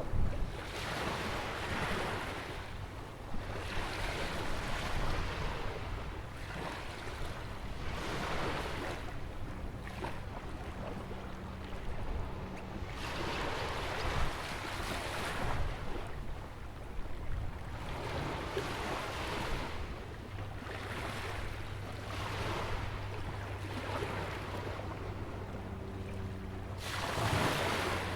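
Ocean waves breaking and washing against a rock jetty and sandy beach, each rush swelling and fading every couple of seconds, with a larger wave near the end. Wind rumbles low on the microphone throughout.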